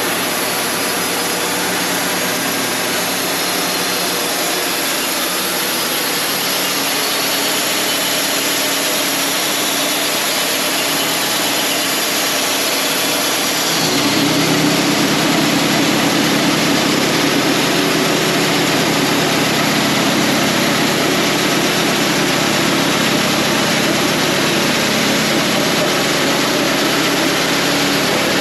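Wood-Mizer LT35 Hydraulic portable bandsaw mill running steadily, its engine and band blade sawing a red oak log into lumber. About halfway through, the sound steps up and grows a little louder.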